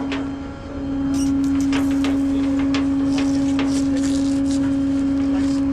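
A tow truck's machinery running with a steady, single-pitched drone that dips for a moment about half a second in, overlaid by scattered clicks and knocks.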